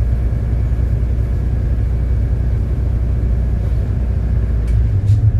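City bus driving along: a steady low engine and road rumble. Near the end the engine note grows louder.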